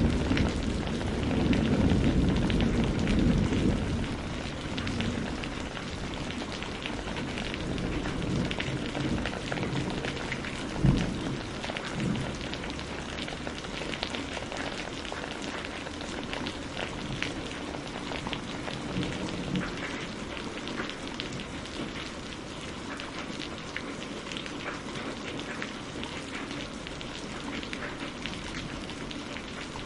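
Steady rain falling, with fine drop ticks. A low roll of thunder fades away over the first few seconds, and a brief loud low thump comes about a third of the way through.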